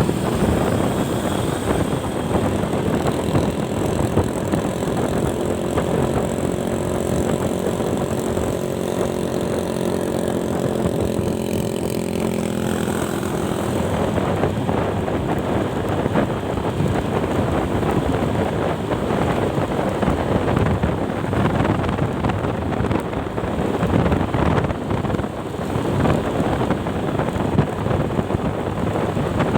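A vehicle's engine running on the move, with wind rushing over the microphone. A steady engine note through the middle fades out about thirteen seconds in, leaving mostly wind and road noise.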